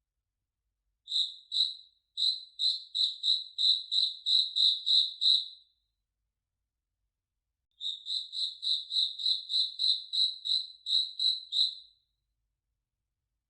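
A cricket chirping, a high-pitched pulse about three times a second, in two bouts: one starting about a second in and stopping near six seconds, the other starting near eight seconds and stopping near twelve, with silence between.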